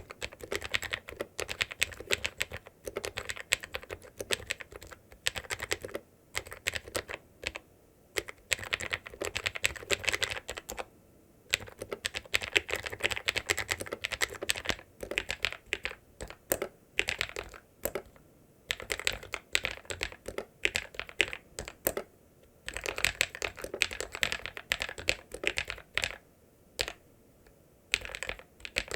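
Typing on a ZIYOULANG K68 68-key mechanical keyboard with ABS keycaps: fast runs of key clicks that stop briefly and start again.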